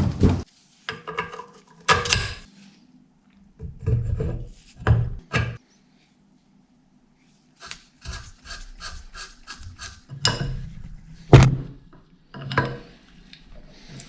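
Hand work on the bench grinder's parts: short scrapes, knocks and rubs in separate bursts, with a quick run of even clicks, about five a second, a little past the middle.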